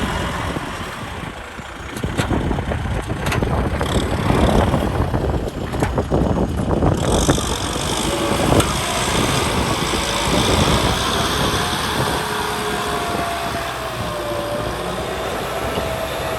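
Kubota M6040 SU tractor's diesel engine running, with knocks and clatter in the first half and a thin wavering whine over the engine in the second half.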